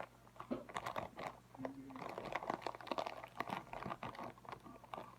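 Crinkling of a Takis chip bag being opened and handled, with the rolled tortilla chips rattling and crackling inside, in a dense run of sharp crackles.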